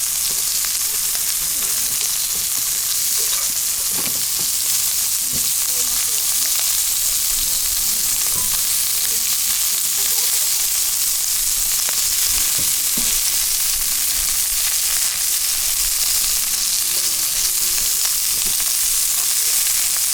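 Food frying in a hot pan, a steady sizzle with faint scattered crackles.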